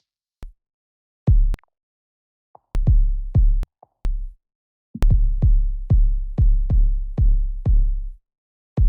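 Isolated electronic drum-machine kick drum hits, deep and booming with short decays, in a broken pattern that settles into a steady run of about two hits a second from about halfway through.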